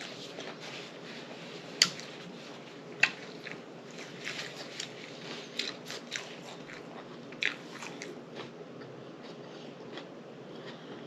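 Close-miked chewing and crunching of a mouthful of chicken taco salad, with many short crackly mouth clicks and two louder sharp crunches about two and three seconds in.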